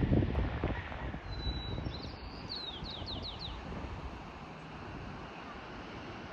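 Wind buffeting the microphone over a steady hiss of wind and surf, with gusts loudest in the first second. A small bird calls about a second in: a short high whistle, then a run of about six quick falling chirps.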